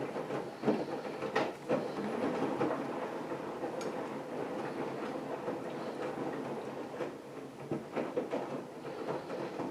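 AEG Lavamat front-loading washing machine running a wash cycle: the drum turning the laundry with a steady churning sound and irregular knocks and clatter.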